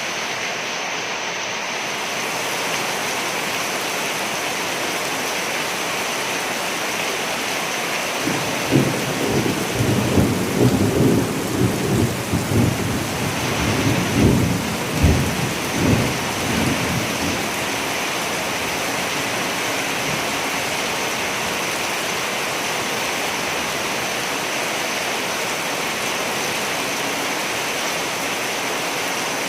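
Steady heavy rain with a long roll of thunder rumbling through the middle, from about 8 to 17 seconds in, louder than the rain.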